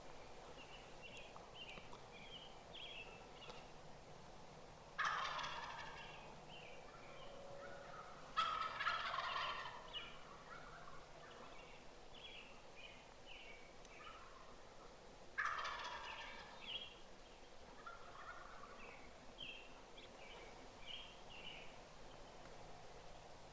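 Wild turkey tom gobbling three times, each gobble starting suddenly and fading over about a second, with rows of softer short notes in between.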